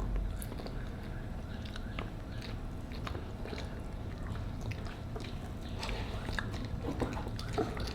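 Children chewing and eating, with scattered small clicks and smacking sounds of mouths and food.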